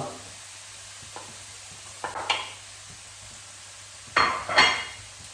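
Onion and garlic sizzling in a little hot oil in a pan while being stirred, with two louder bursts about two and four seconds in.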